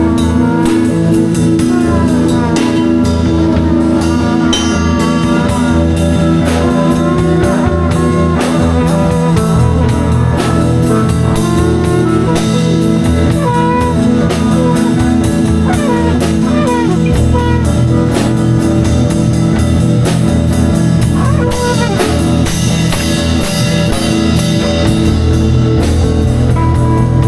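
A live band improvising a loud blues-rock jam: a drum kit keeps time under a lead line with bending, wavering notes, over sustained low notes.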